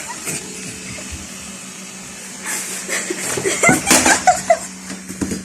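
A robot vacuum cleaner running with a steady low hum. From about halfway, short bursts of a person's laughter sound over it.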